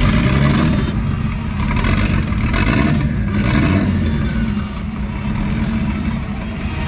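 BMW M50 straight-six engine running with a steady low note, while water comes out of its exhaust manifold, which the owner calls really bad news.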